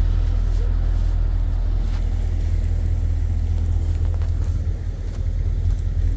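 A low, steady rumble that holds at an even level throughout.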